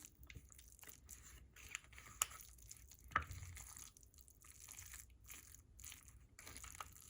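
Faint squishing and scraping of a canned-mackerel patty mixture being worked in a bowl, with scattered small clicks and a couple of sharper ticks.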